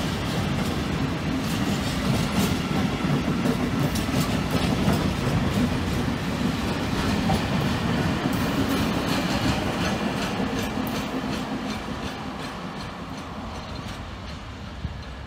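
A freight train of loaded container flat wagons rolls past close by, a steady rumble with a run of wheel clicks over the rail joints. The sound fades away over the last few seconds as the end of the train moves off.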